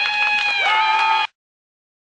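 A mass of bottle rockets firing at once: several overlapping whistles, some dropping in pitch, over scattered pops and cracks, cutting off suddenly just over a second in.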